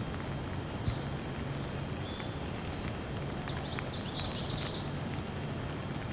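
Steady rain with songbirds chirping over it; a quick run of rapid, high chirps comes about three and a half seconds in and lasts over a second.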